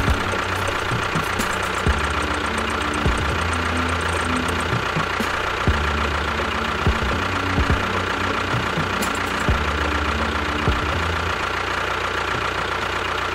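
A small engine running steadily, with scattered knocks and clicks over a constant hum.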